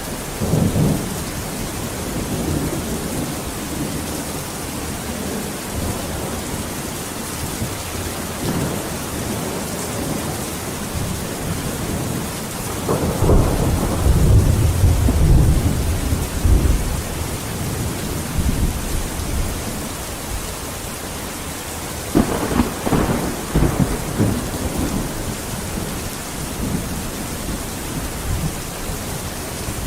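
Steady heavy rain with rolling thunder: a long low rumble builds about halfway through, and a second peal breaks sharply a few seconds later, then rumbles away.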